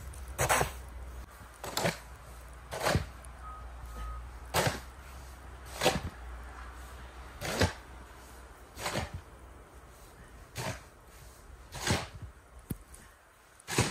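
Footsteps crunching and trudging through knee-deep fresh snow, about ten slow, even steps, one every second or so.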